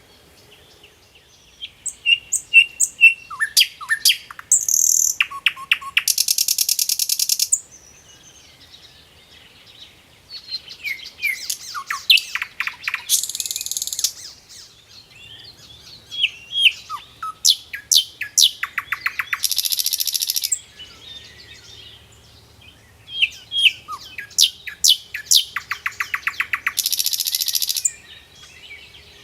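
A songbird singing: three song bouts about ten seconds apart, each a run of high chirps and downward-sliding notes ending in a fast buzzy trill.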